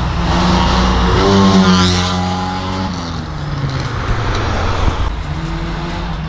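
Ford Fiesta XR2i's 1.6 CVH four-cylinder engine pulling hard at full throttle, heard from the roadside: the pitch climbs over the first two seconds, falls away about three seconds in, and rises again near the end.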